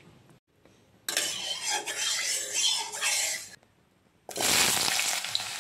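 Potato cubes starting to sizzle as they go into hot oil in a kadai, a dense, steady frying hiss from about four seconds in. Before that, about a second in, there is a shorter stretch of rough hissing noise from the pan.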